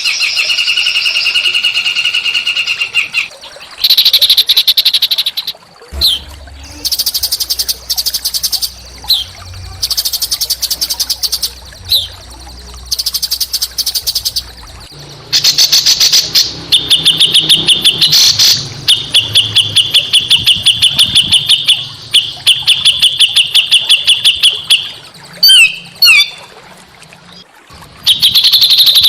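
Small songbirds singing harsh, rapid trilled phrases a second or two long, with short gaps between, some phrases very high and buzzy.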